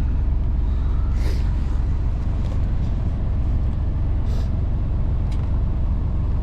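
Semi truck's diesel engine idling with a steady low rumble, with two brief hisses, one about a second in and one about four seconds in.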